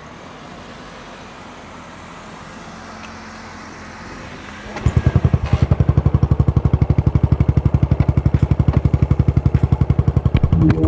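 A Yamaha SR400's single-cylinder engine with a Goods Tapered Cone slip-on muffler starts about halfway through and settles into an even idle: a steady, loud beat of exhaust pulses. Before that there is only a low, quiet background hum.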